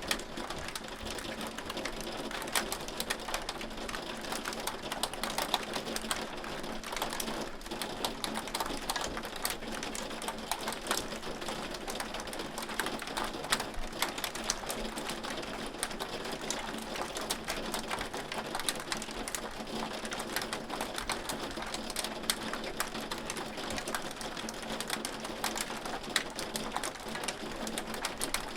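Hail falling steadily, many small hailstones ticking and clattering densely on a hard surface without a break.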